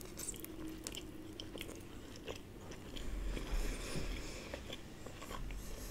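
A person chewing a mouthful of puri with spiced potato (aloo ke gutke), close to the microphone: quiet, with scattered small clicks and wet mouth sounds.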